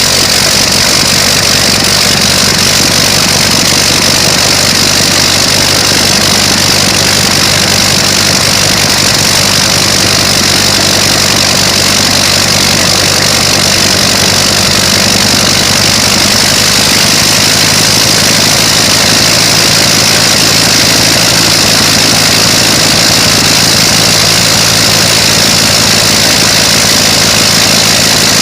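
Big old aircraft piston engine running steadily at a constant speed, loud and unbroken, with a low pulsing drone under a strong hissing rush.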